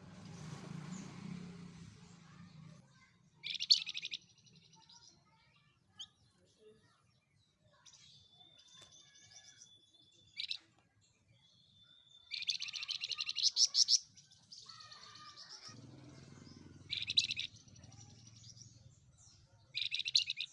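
Songbird calling in several short, harsh, buzzy chattering bursts, one longer run of them about 12 seconds in, with a long thin level whistle between them. A faint low hum runs underneath.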